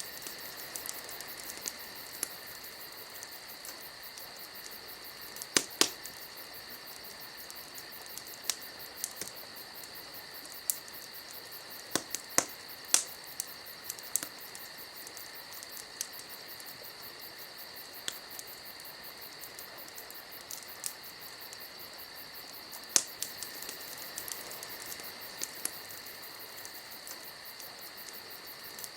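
Wood fire crackling: irregular sharp pops and snaps, a few of them louder, over a steady high-pitched hiss.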